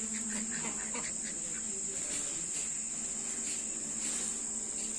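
Steady high-pitched insect chorus, with scattered faint short chirps and a low hum that fades out about a second in.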